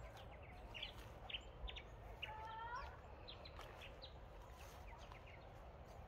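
Birds calling faintly: scattered short, high chirps, and a little over two seconds in one longer, lower call with several stacked tones that lifts slightly at its end. A low rumble runs underneath.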